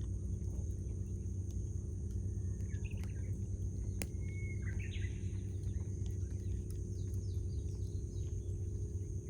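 Wood campfire crackling with scattered sharp pops, one louder pop about four seconds in, over a steady low rumble. Birds call briefly in the background, a few short calls near the middle.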